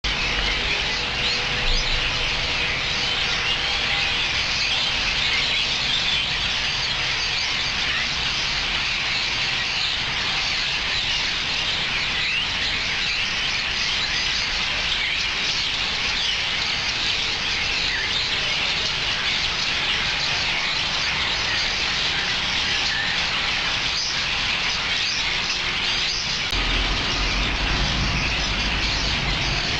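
A large flock of birds calling all at once: a dense, continuous chatter of many overlapping chirps. A low rumble joins near the end.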